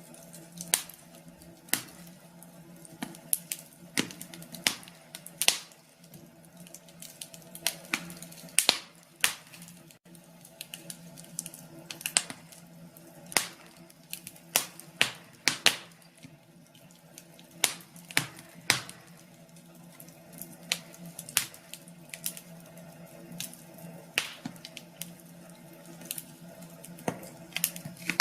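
Wood fire crackling, with irregular sharp pops and snaps, some much louder than others, over a faint steady hum.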